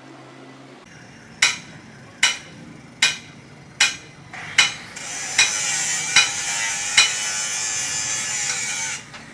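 Hammer blows ringing on metal, eight evenly paced strikes a little under a second apart, with a steady hiss starting about halfway through and cutting off just before the end.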